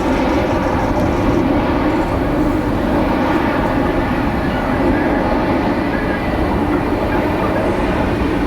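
Jet airliner engines running, a steady, loud rumble.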